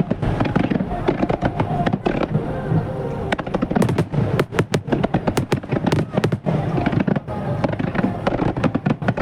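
Aerial fireworks display firing a dense barrage: many sharp shell bursts and crackling reports a second, one upon another, over music.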